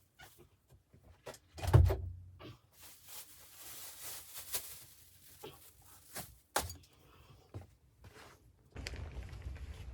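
A series of knocks and handling noises, with a heavy thump about two seconds in and a short rustling hiss after it. Near the end a steady low rumble sets in.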